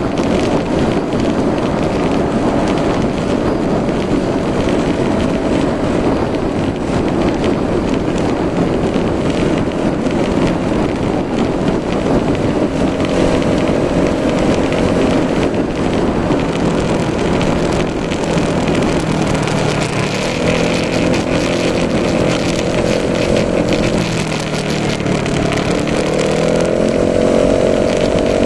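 Yamaha Majesty S 155 scooter's single-cylinder four-stroke engine running under way, heavily covered by wind noise, its note holding steady and then rising near the end as it speeds up.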